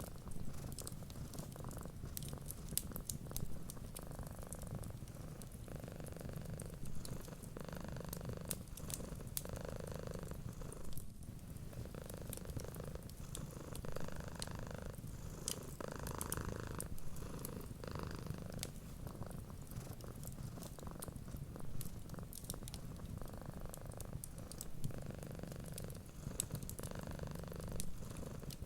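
Domestic cat purring steadily, the purr swelling and easing with each breath, with scattered sharp crackles from a wood fire.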